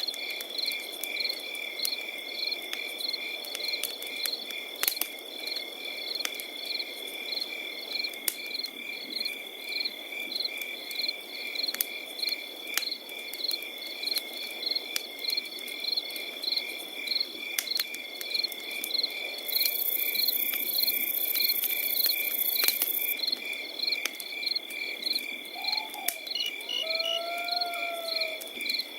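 Crickets chirping in a steady, pulsing chorus, with a campfire crackling in sharp scattered pops. A brief high hiss comes in for a few seconds past the middle, and a short call sounds near the end.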